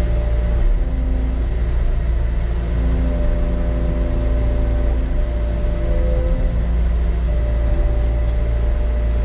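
Caterpillar 289D3 skid steer's diesel engine running steadily under load, with a heavy low rumble and steady tones that shift and come and go as the machine works to lift the mower attachment.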